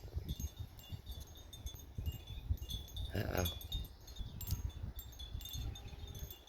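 Wind chimes ringing on and off, their high, clear tones overlapping, over a low, uneven rumble.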